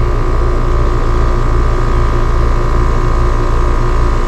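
Trane XR air conditioner's outdoor condensing unit running, its compressor and condenser fan motor giving a steady hum with a higher whine over it.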